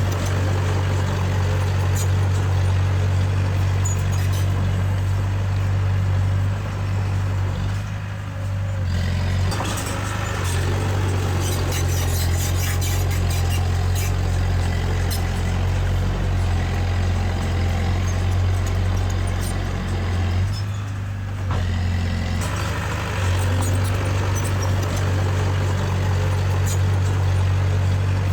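Heavy-equipment diesel engine running steadily with a low hum, easing off briefly about eight seconds in and again about twenty-one seconds in, with faint clicks and clanks over it.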